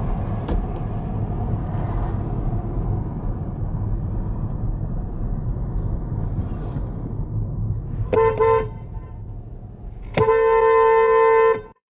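Car horn honking twice over steady low road rumble. A short toot comes about eight seconds in, then a longer blast of about a second and a half that cuts off abruptly.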